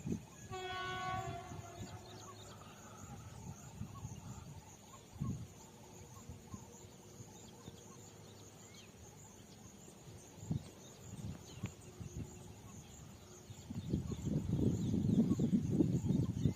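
Locomotive horn sounding once as a single steady tone for about a second and a half, then low uneven rumbling that swells near the end.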